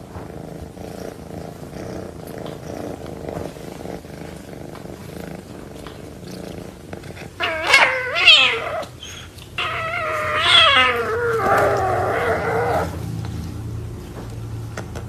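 A domestic cat purring steadily, then meowing twice about halfway through: a short call, then a drawn-out, wavering yowl of about three seconds that is the loudest sound.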